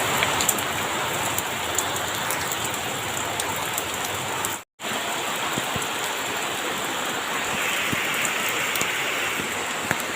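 Steady rain falling, with scattered sharp drop ticks. The sound breaks off for a moment about halfway, then resumes.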